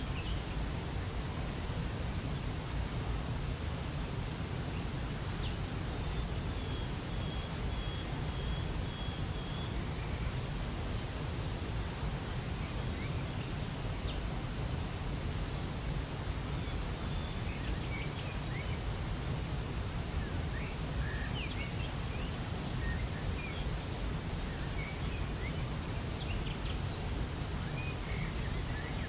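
Steady rushing of a waterfall, with small birds chirping on and off over it and one held high trill about six seconds in.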